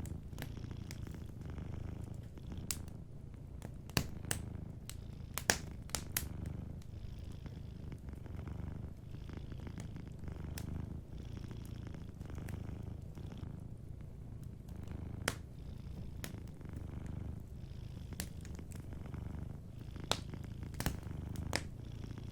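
Cat purring in a steady low rumble that swells and eases in slow waves, over a wood fire crackling with sharp pops scattered throughout, the pops being the loudest sounds.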